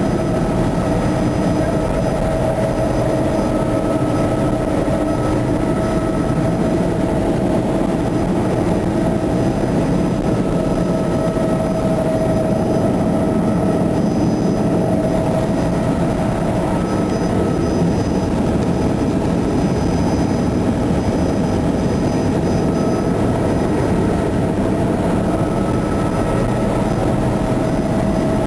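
Helicopter in flight heard from inside the cabin: a loud, steady drone of engine and rotor with a steady whine over it.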